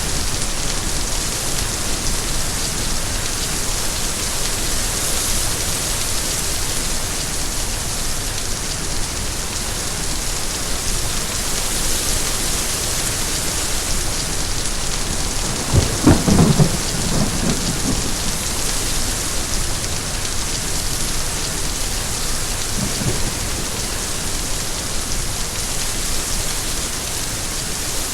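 Steady rain falling, with a short low rumble of thunder a little past halfway and a fainter rumble later on.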